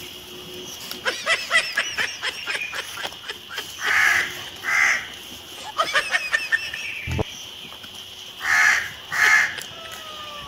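Repeated bird calls: bursts of quick, short calls alternating with pairs of longer calls, the pattern coming round every few seconds.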